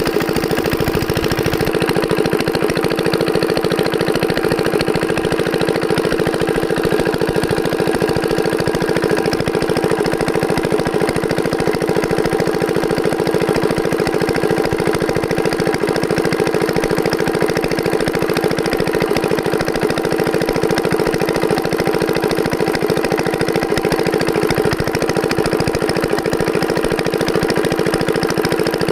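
Diesel engine running steadily at one constant speed, an even, rapid chugging with no change in revs.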